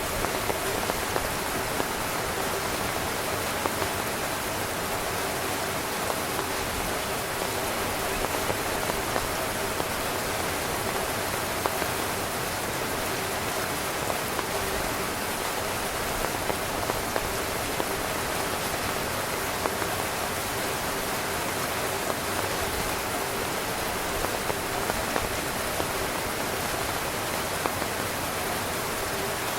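Heavy rain falling steadily on a tent, a dense even patter with scattered louder individual drop hits.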